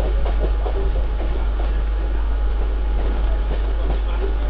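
Mumbai suburban electric local train running at speed, heard from its open doorway: a steady rumble of wheels on rail with a few faint clicks, and heavy wind buffeting the microphone.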